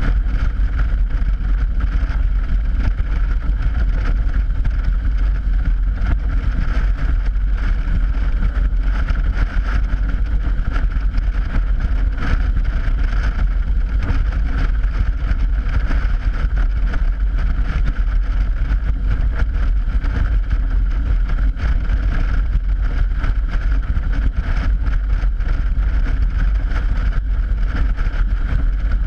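Motorcycle riding steadily over a steel grate bridge deck: a steady tyre-on-grate drone under heavy wind buffeting on a GoPro microphone.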